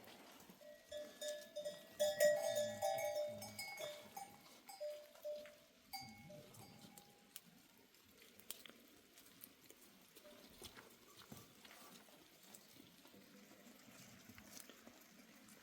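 Bells on a herd of goats clanking irregularly as the animals move, loudest in the first six seconds, then fading to occasional faint clinks.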